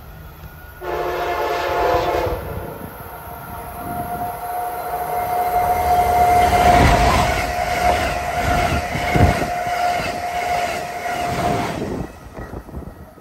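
Amtrak Acela high-speed electric train sounding a short horn chord about a second in, then rushing past at speed with rumbling, clattering wheels and a steady high whine. The noise drops off suddenly near the end as the last car clears.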